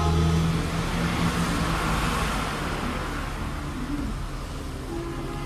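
Motor vehicle running, a low engine hum at first, then a rushing noise that swells about two seconds in and slowly fades.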